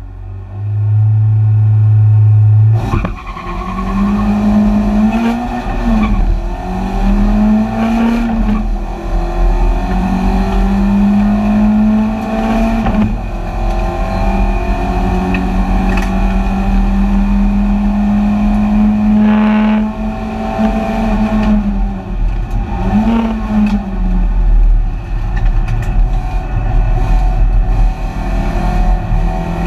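BMW 318ti Compact race car's four-cylinder engine, heard from inside the stripped cabin. It is held at steady revs for a couple of seconds, then opened to full throttle about three seconds in, revving up with two quick upshifts. It then runs at high revs, dropping and rising again around twenty seconds in.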